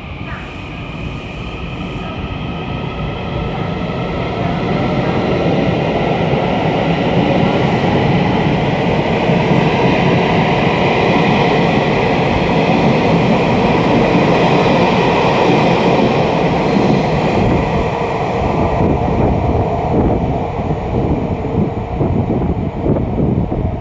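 Taiwan Railway electric multiple-unit train running along the station platform, its rumble and rail noise building over the first several seconds, then holding loud with a steady high electric whine over it before turning uneven near the end.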